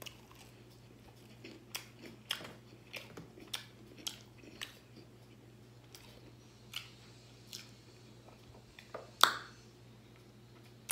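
Close-up chewing of a breaded vegan buffalo chicken wing: wet mouth clicks and smacks, about two a second for the first few seconds, then sparser, with one sharper smack near the end.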